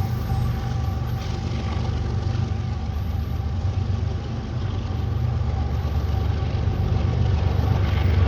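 Diesel locomotive engine running with a steady low rumble and a few steady higher tones. It dips slightly about halfway through, then grows louder over the last few seconds.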